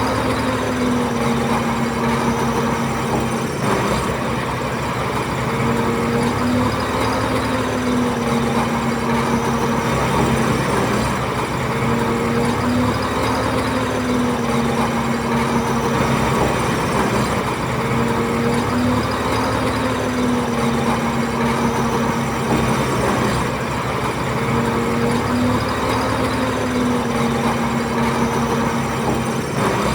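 Bulldozer's diesel engine running steadily under work, its pitch rising and easing in a repeating cycle of about six seconds.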